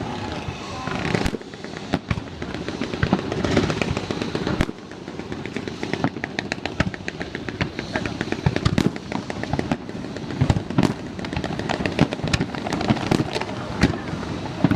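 Aerial fireworks display going off: repeated sharp bangs of shell bursts, with a dense run of rapid crackling a few seconds in.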